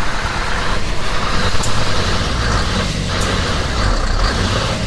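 Scania R500 truck's diesel engine running hard and steadily during a burnout, with a broad noisy hiss of spinning tyres over the engine rumble.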